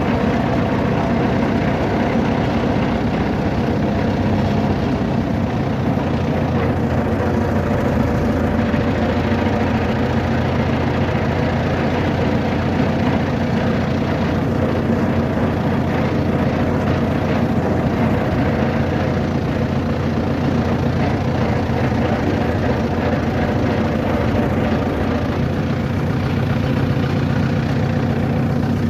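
A vehicle engine running steadily with a constant low hum, unchanging throughout.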